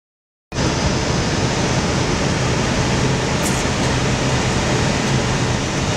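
Steady rushing airflow noise with a low hum inside an Airbus A320 cockpit on final approach, configured with full flaps and landing gear down. It starts abruptly about half a second in.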